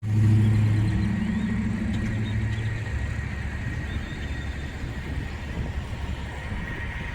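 A vehicle engine's low steady hum, loud at first and fading over the first three seconds, over a continuing low traffic rumble.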